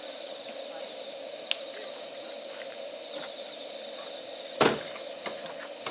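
Steady high-pitched insect trilling in the background while a dying campfire crackles faintly, with one loud sharp pop from the burning wood near the end.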